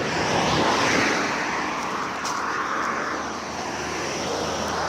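Steady rushing roar of an aircraft passing overhead, with a slowly wavering, phasing tone as it moves.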